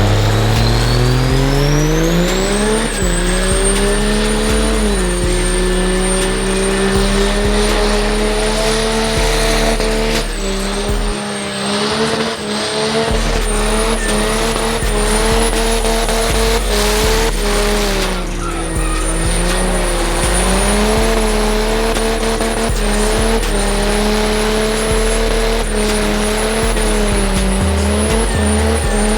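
Diesel truck engine revving up over the first few seconds and then held at high revs with small dips, with tyres squealing: a burnout.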